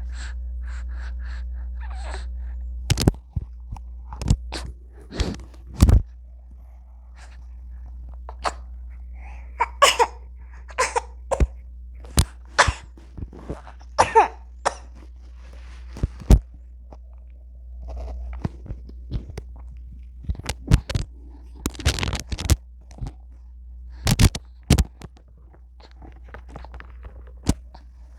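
A baby coughing and sneezing in many short, sharp bursts, with brief little voice sounds between them.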